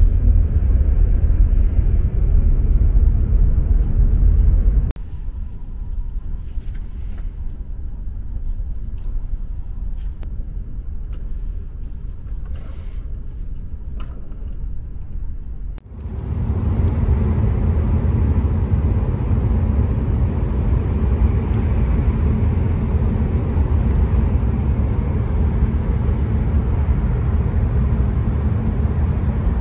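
Cabin noise of a Hokuriku Shinkansen bullet train running at speed: a steady low rumble heard from inside the passenger car. It drops to a softer level about five seconds in, with a few faint clicks, and comes back louder about sixteen seconds in.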